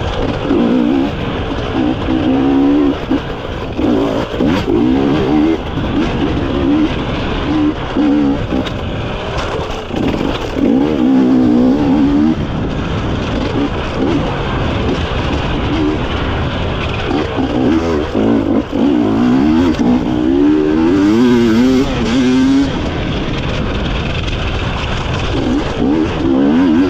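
GASGAS EC250 two-stroke enduro motorcycle engine revving hard, its pitch rising and falling again and again as the throttle is worked on a steep, technical climb, heard on board.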